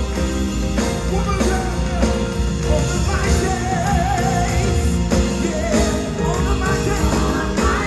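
Live gospel band playing with a steady beat and a full bass, with a voice singing wavering, ornamented lines over it.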